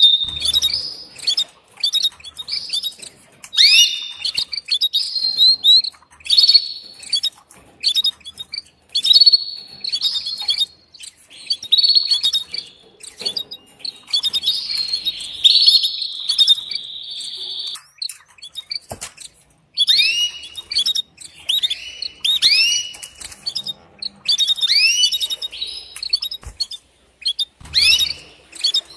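Female domestic canary giving her mating call: short repeated chirps and upswept notes in quick bursts, with a longer trill about halfway through. It is the call a hen uses to summon a male and rouse him to sing.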